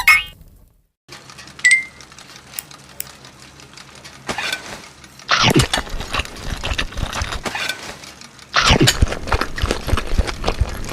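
Close-miked eating sounds: crisp crunching and chewing made up of dense clicks and crackles, with two louder crunching stretches around the middle and near the end.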